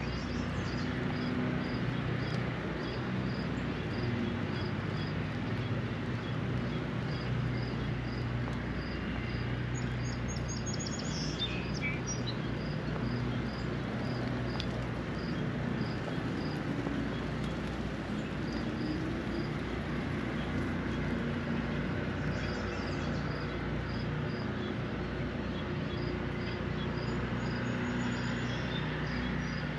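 Steady hiss of falling rain with birds calling: a high short chirp repeating about twice a second, and a quick descending trill about a third of the way in. A low rumble of distant traffic swells and fades underneath.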